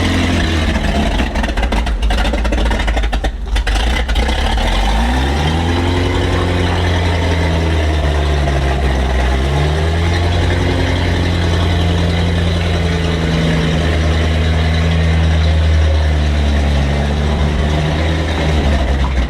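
Alvis Saracen armoured car's Rolls-Royce B80 straight-eight petrol engine running loud and rough, its revs rising and falling a few times about five to ten seconds in, then held steadier. It is running poorly, which the crew put down to a carburettor in need of cleaning.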